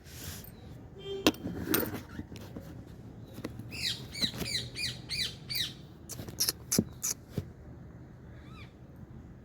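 A quick run of about eight high chirping calls from a small animal in the middle, with a few sharp clicks and knocks before and after.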